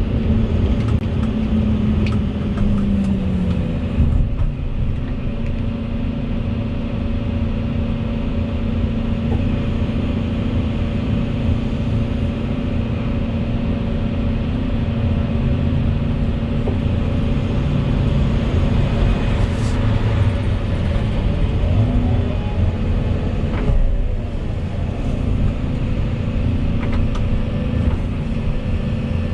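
Volvo EC220E excavator's diesel engine running steadily under work, a constant drone with a level hum, and a brief falling tone about two seconds in.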